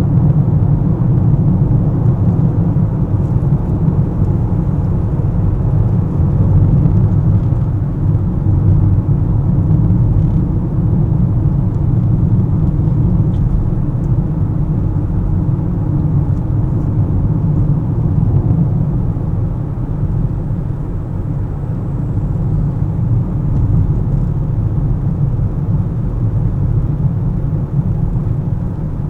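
A car driving in traffic: a steady low rumble of road and engine noise that holds level throughout.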